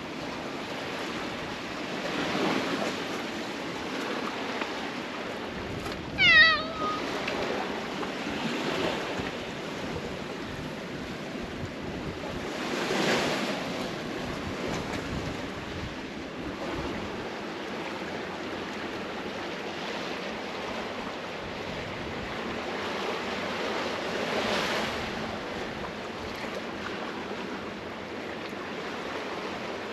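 Sea waves washing against a tetrapod breakwater, swelling and easing every few seconds. About six seconds in, a cat gives one short meow that falls in pitch.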